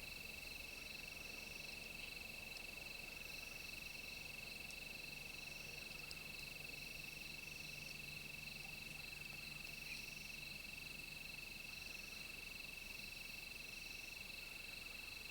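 Steady insect chorus: a continuous high, even trill, with a higher pulsing layer that swells every couple of seconds.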